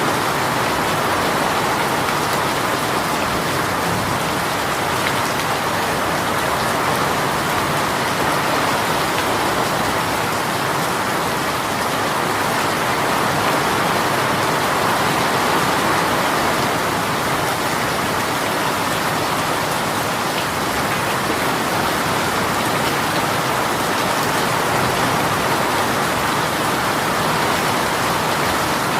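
Heavy rain from a sudden downpour, falling steadily on surfaces as an even, unbroken hiss of drops.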